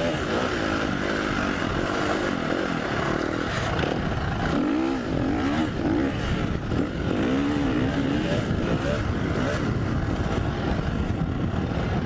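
2015 KTM 350 SX-F single-cylinder four-stroke dirt bike engine under way while being ridden. Its pitch rises and falls repeatedly as the throttle is rolled on and off.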